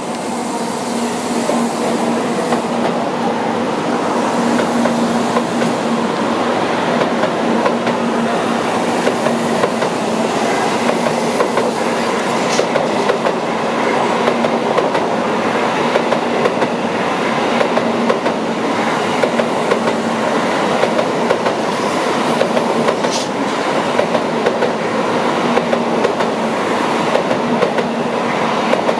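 A Tokaido Shinkansen N700-series train pulling out, its cars rolling past at low speed with a steady running rumble and hum and a light clatter of wheels over rail joints and points.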